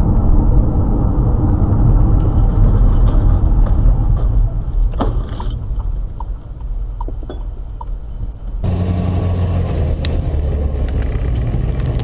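Steady low rumble of road and engine noise from cars being driven, with a few faint clicks and short beeps in the middle. The sound changes abruptly a little past halfway, where a new recording begins with the same kind of rumble.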